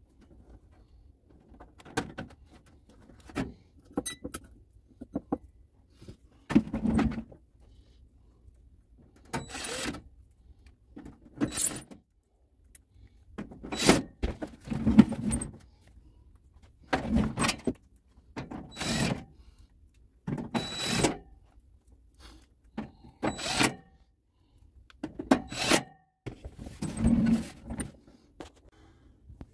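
Handling noises as a dehumidifier's plastic housing is put back together: about a dozen short, irregular bursts of knocking, clicking and rubbing, each a second or less, with quiet gaps between.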